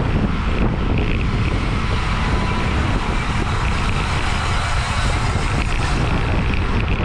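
Steady wind rushing over a bike-mounted camera's microphone as the rider races in a criterium pack at speed.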